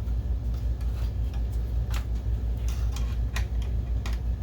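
A few scattered light metallic clicks and taps from a screwdriver and small screws being handled, over a steady low hum.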